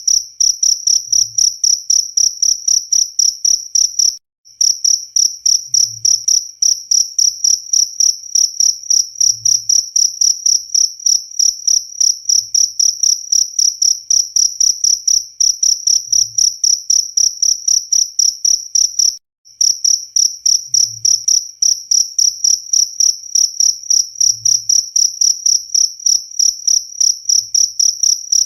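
A cricket chirping in a fast, even rhythm, about three to four high-pitched chirps a second. It breaks off briefly twice, about four seconds in and again near nineteen seconds.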